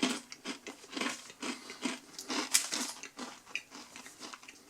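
A person biting into and chewing a crunchy oats-and-honey granola bar: a run of irregular dry crunches and crackles.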